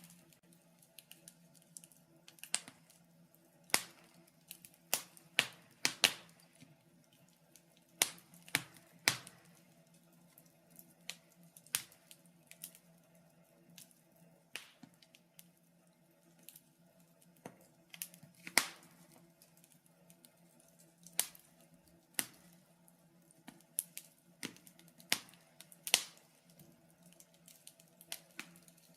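Wood fire crackling in a fireplace: sharp, irregular pops and snaps, one or two a second, some much louder than others.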